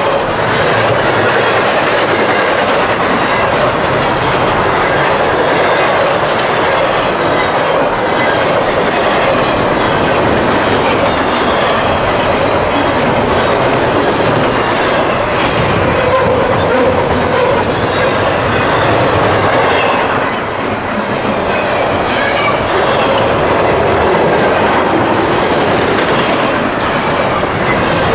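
Intermodal freight train's double-stack container well cars rolling past, the wheels clattering steadily over the rails with a loud, continuous rumble.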